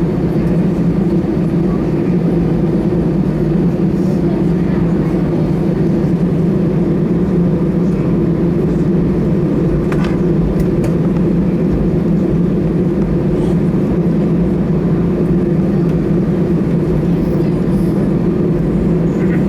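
Steady loud drone inside the cabin of an Airbus A319 taxiing after landing, its engines running at idle.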